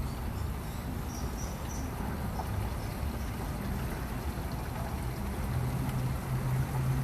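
Motorcycle engine running under way with steady wind rush over the microphone; the low engine note grows louder about five and a half seconds in.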